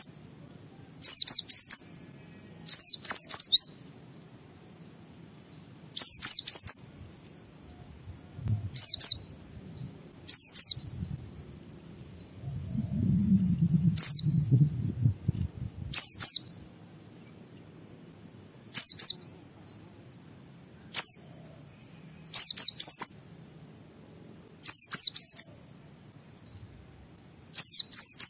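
White-eye (pleci) singing in short, high, rapid chirping phrases of quick downward-sweeping notes, each under a second long, repeated every one to two seconds. A low rumble sounds under the song for a few seconds in the middle.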